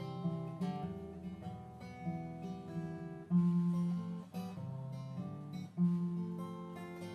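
Acoustic guitar strumming chords in an instrumental passage between sung verses of a folk song, with a few sharper, louder strums.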